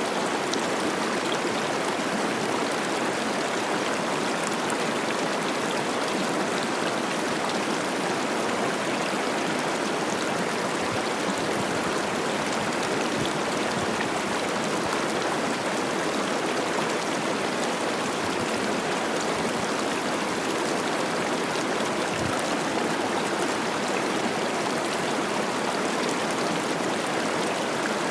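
Snowmelt-swollen mountain river rushing and babbling over rocks, a steady unbroken water noise.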